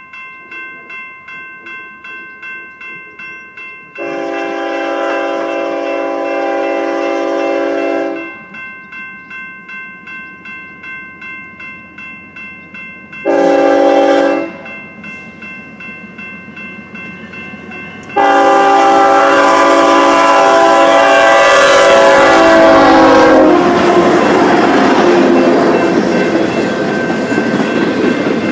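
A grade-crossing bell rings steadily, about two to three strokes a second, while a locomotive horn sounds a long blast, a short blast and a final long, loud blast. The last blast dips in pitch near its end as the train passes. The rumble and clatter of the passing train's wheels and cars follows.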